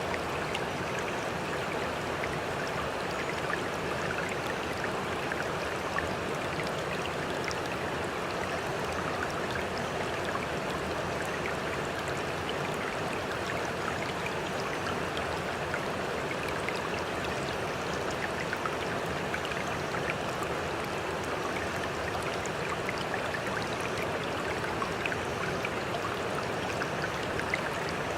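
Steady flowing water, like a stream, an even rush with faint scattered splashing ticks.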